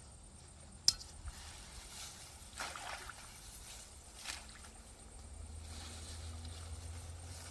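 Water sloshing and splashing in a shallow stream, with a sharp knock about a second in and a few short splashes after it.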